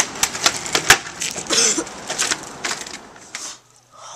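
Skateboard clattering on pavement during a trick attempt: a quick run of sharp wooden clacks and knocks over a rolling-wheel hiss. The sound stops abruptly after about three and a half seconds.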